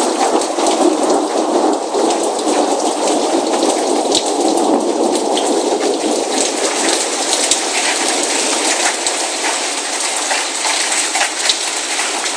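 Steady rain falling on hard surfaces, with many single drops ticking close by. A deeper rumbling layer under the rain fades out about halfway through.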